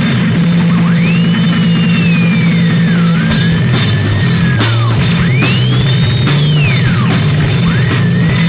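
Heavy rock music with drums, guitar and a held, stepping bass line, under a high lead line that swoops up and down in long slides.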